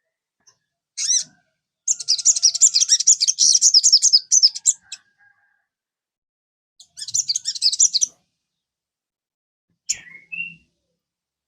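Sogon songbird singing: fast, high chattering phrases of rapid notes, a long burst followed by a shorter one, then a brief call near the end. This is a prompting song played to set other sogon birds singing.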